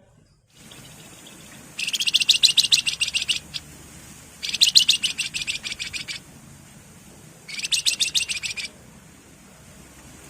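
Wergan jawa (Javan fulvetta) singing three rapid, buzzy trills, each a second or more long, starting about two seconds in, at four and a half seconds, and at seven and a half seconds.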